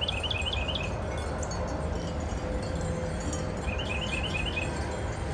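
Wind gusting with a steady low rumble on the microphone while outdoor wind chimes ring faintly. Twice, at the start and about four seconds in, comes a short quick run of high chirps.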